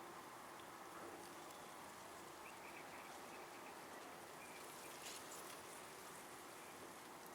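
Near silence: a faint steady hiss of outdoor ambience, with a few faint high chirps about two and a half seconds in.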